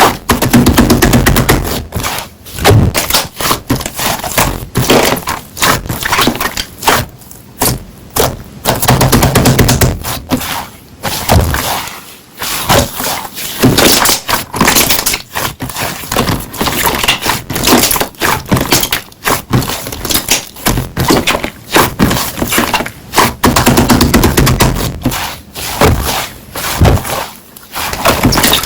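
Toy slime being squeezed and pressed by hand, giving dense runs of small clicks and pops in uneven bursts.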